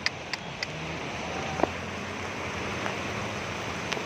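Steady rushing noise of floodwater and rain, with a few sharp clicks near the start and a single knock about one and a half seconds in.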